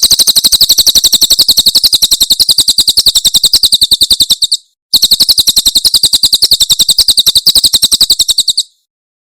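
Cililin songbird giving its rapid 'tembakan' song: a fast, high trill of sharp repeated notes, about a dozen a second. It comes in two long runs with a short break about four and a half seconds in, and stops near the end.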